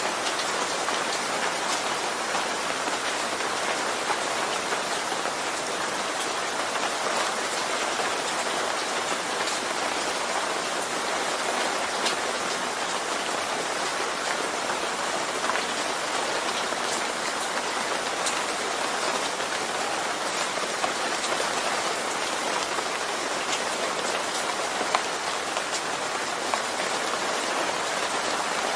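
Steady rain falling, an even hiss with scattered single drops ticking out of it.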